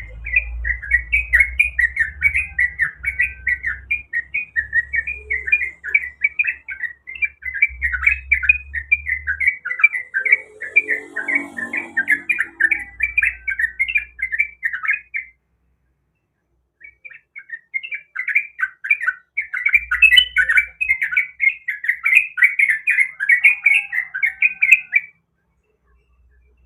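Yellow-vented bulbul (trucukan) singing a rapid, bubbly chatter of many notes a second. It runs on in two long bursts with a short break just past the middle, then stops shortly before the end.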